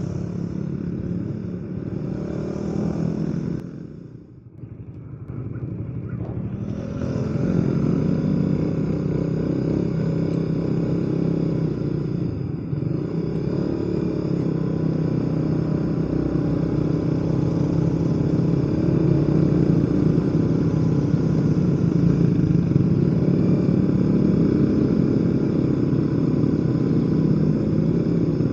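Suzuki Raider 150 Fi's single-cylinder four-stroke engine running steadily while riding. The sound drops away briefly about four seconds in, then returns slightly louder and steady.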